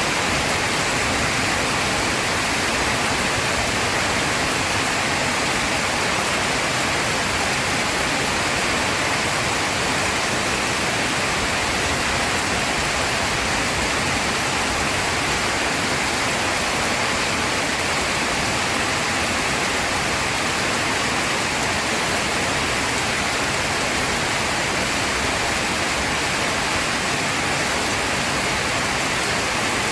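Heavy rain pouring down steadily as a dense, even hiss, with no thunder.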